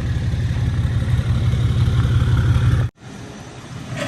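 Truck engine running with a steady low rumble, cut off abruptly about three seconds in.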